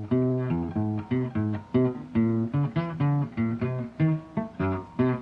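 Background music: an instrumental passage of a calypso-style song, with plucked guitar notes picked out in a quick, even rhythm.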